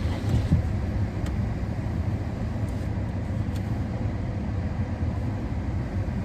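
Steady low rumble of a car heard from inside the cabin while it is being driven: engine and road noise.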